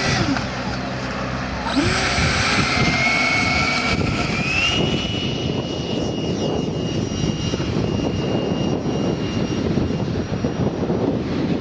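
Radio-controlled model F-22 Raptor's motor whining and climbing in pitch a few seconds in, then holding steady at full power. Gusty wind rumbles on the microphone throughout.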